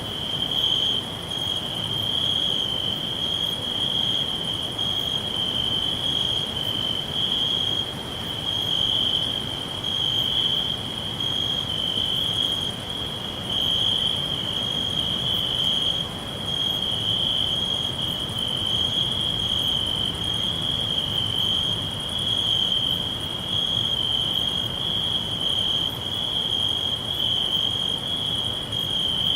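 Crickets chirping in a continuous chorus, a steady high trill that swells and fades slightly every second or so, over a faint low background rumble.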